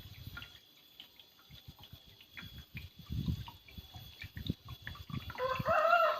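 Water dripping and splashing from a small homemade waterfall, in irregular drops and soft thuds. About five seconds in, a louder pitched tone begins and holds.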